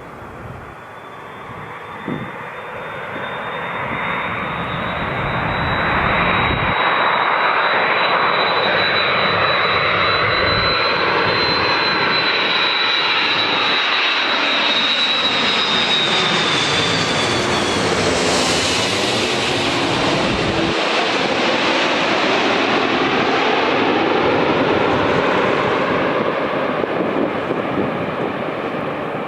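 Jet engines of an Airbus A330-300 on landing approach, growing loud over the first few seconds, with a high fan whine that drops in pitch about midway as the airliner passes, then the engine noise eases off near the end.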